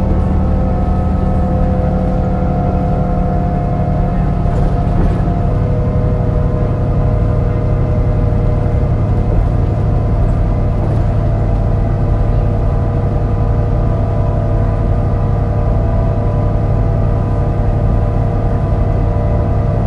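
MAN NL202 CNG bus engine running steadily under way, with the tuneful whine of its ZF five-speed automatic gearbox drifting slightly down in pitch. The engine has a bad misfire.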